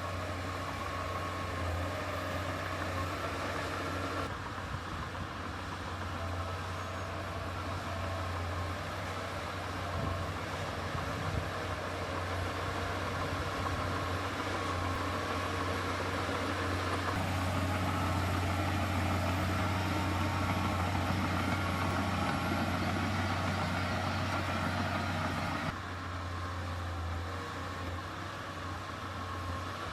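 Heavy diesel earthmoving machinery engine running steadily with a deep hum. It grows louder a little past halfway, as if working harder, then drops back suddenly near the end.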